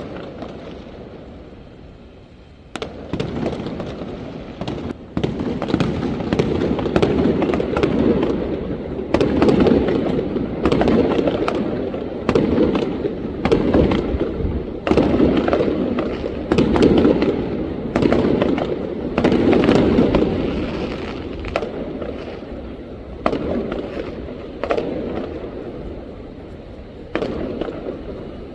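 Fireworks bursting in a rapid barrage: many sharp cracks and booms overlapping for most of the stretch, thinning out over the last several seconds.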